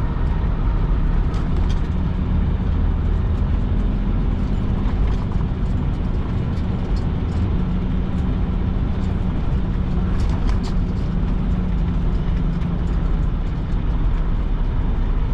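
Tractor-trailer's diesel engine running steadily at low speed while the truck is maneuvered, with a few light clicks and rattles over it.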